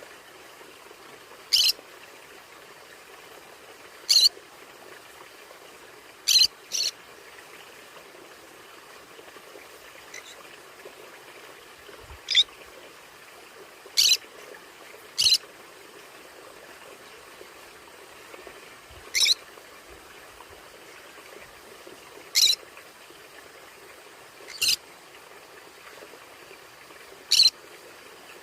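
Conure giving short, sharp single squawks about every two to five seconds, one of them doubled, over a steady background hiss.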